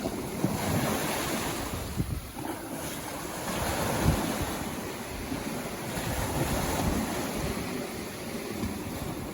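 Sea waves breaking and washing up on a beach, the surf swelling and falling back about every three seconds, with wind rumbling on the microphone.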